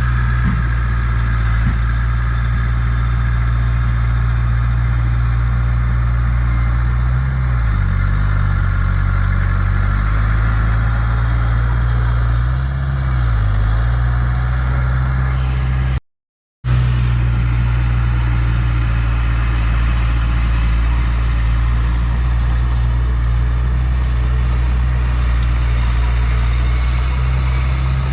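Heavy diesel engine of earthmoving machinery running steadily, its note dipping briefly twice. The sound drops out completely for about half a second a little past the middle.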